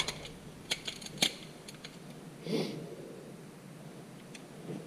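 Light metal clinks from steel gear-train parts of a Ford E4OD automatic transmission being handled during teardown: a few sharp clicks in the first second or so, then a brief scrape about halfway through.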